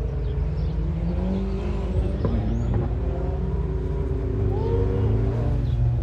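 Volvo 740 Turbo's turbocharged four-cylinder engine running under load, its revs rising and falling, with a few sharp knocks around the middle.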